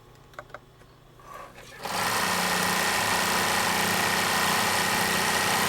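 A few light clicks, then about two seconds in the Bernina 950 industrial zigzag sewing machine starts and runs steadily at high speed, sewing. Very quick, very smooth.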